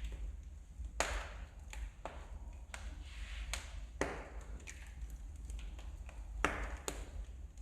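Wood fire burning in a fireplace, crackling with irregular sharp pops, the loudest about a second in and near the end, over a low steady rumble of the flames.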